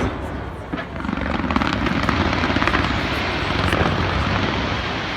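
Aerial fireworks going off: a rapid, dense crackle of many small bursts over a steady low rumble, swelling about a second in.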